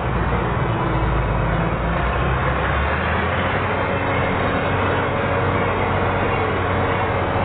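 Combine harvester running steadily, a loud mechanical din with a steady whine over it; its low rumble shifts about three seconds in.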